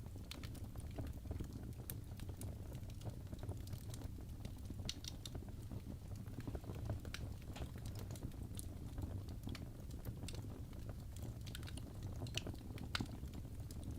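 Wood fire crackling in a fireplace: irregular sharp pops and snaps over a steady low rumble, with a few louder pops near the end.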